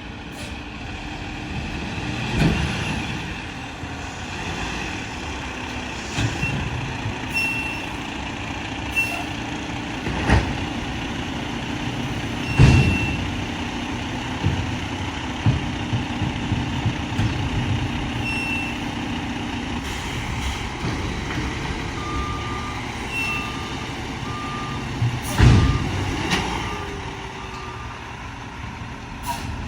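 Mack LR McNeilus garbage truck running and working, its engine and hydraulics holding a steady drone for several seconds in the middle, with a few loud bangs. Near the end a backup alarm beeps in an even series.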